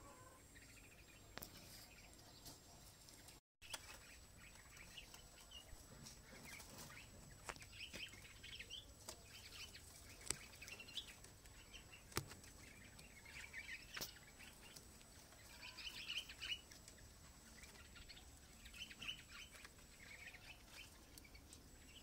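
Faint chirping of small birds in short clusters every few seconds, with a few faint clicks.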